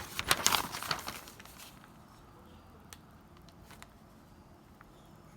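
Plastic packaging crinkling and rustling as it is handled for about a second and a half, then a few light clicks.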